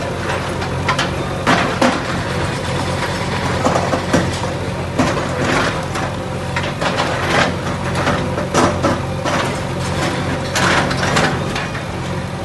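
A heavy demolition machine's engine running steadily, with irregular clanks, knocks and cracks from the machine working on the structure.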